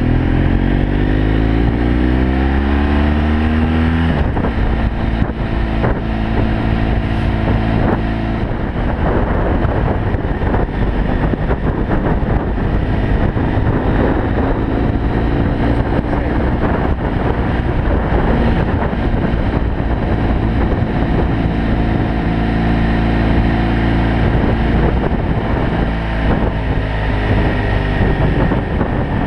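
BMW F 800 GS Adventure's parallel-twin engine pulling under load while riding. Its note rises for the first few seconds, breaks off about four seconds in, then holds steady under a rush of wind noise.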